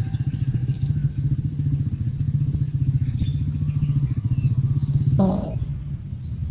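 A small engine running steadily with a rapid low pulsing beat. About five seconds in there is a short sharp sound, after which the engine sound drops a little.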